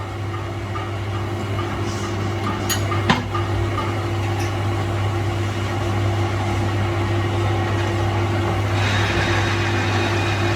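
A workshop machine's motor running with a steady hum. There are two sharp metallic clicks about three seconds in, and a hiss that grows louder near the end.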